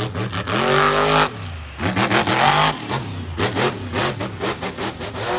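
Monster truck's supercharged V8 engine revving hard: two held revs that climb in pitch and cut off suddenly, with rapid choppy throttle stabs between them, and a third rev starting near the end.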